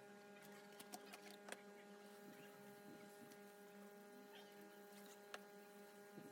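Near silence: a faint, steady electrical hum, with a few faint ticks.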